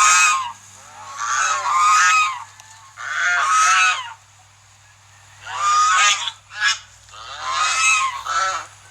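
Goose honking repeatedly, loud pitched honks coming singly or in pairs with short pauses between them.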